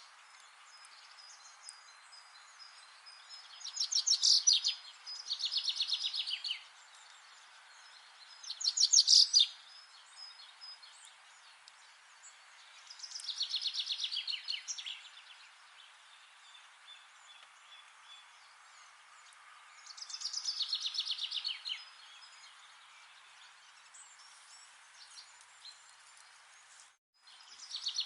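A songbird singing short, rapid trilled phrases every few seconds over a steady, faint background hiss.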